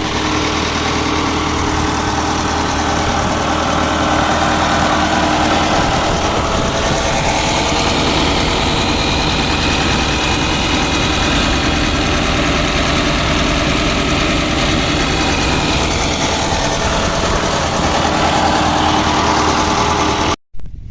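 Vehicle engine idling steadily. It starts abruptly and cuts off sharply just before the end.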